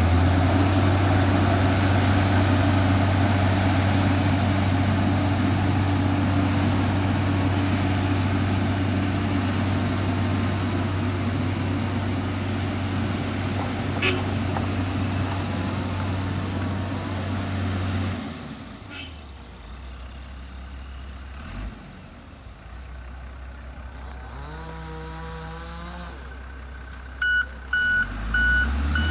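Heavy diesel construction machine engine running steadily, then falling away about two-thirds of the way through. Near the end an engine revs up and a reversing alarm starts beeping at an even rate.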